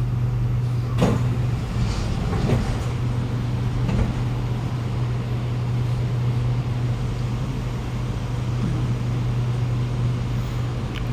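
Stationary Kawasaki Nippon Sharyo C751B metro car with its doors open at a station: a steady low hum from the train's onboard equipment, with a few short knocks in the first few seconds.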